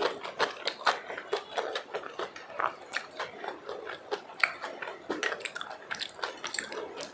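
A person eating close to the microphone: quick, irregular chewing and biting with wet mouth clicks, several a second.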